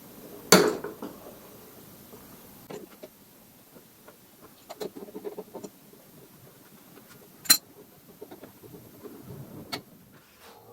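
Tools and metal parts being handled: a few sharp clinks and knocks, the loudest about half a second in and another about seven and a half seconds in, with softer rattling in between.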